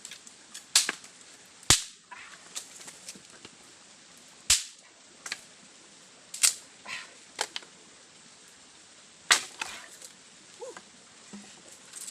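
A string of sharp snaps at uneven intervals, the loudest five spread a second to three seconds apart, with fainter ticks between them.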